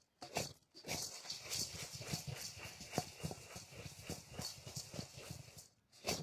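A rapid, irregular run of light clicks and knocks, with two short gaps near the start and one near the end.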